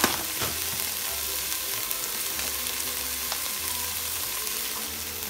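Diced onion and bell pepper sizzling steadily in olive oil in a nonstick pot, with a sharp click at the start and another about half a second in.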